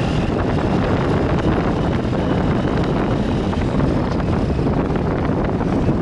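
Wind rushing over the microphone on a moving motorbike, with the bike's running engine underneath.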